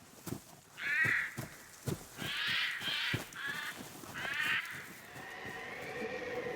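Harsh, rasping cawing calls of a crow-like bird, about five of them spread over four seconds, with short soft knocks in between. A faint steady hum comes in near the end.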